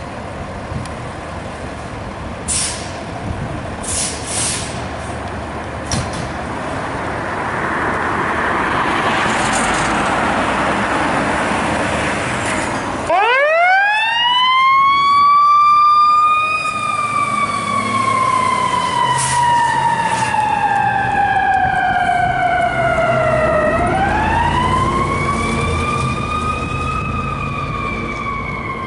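Fire engine's siren winding up sharply about halfway through, then falling slowly in pitch. It is wound up again near the end and starts to fall once more; the quick rise and long slow fall are typical of a mechanical siren. Before it, truck engine and road noise grow louder as the rig approaches.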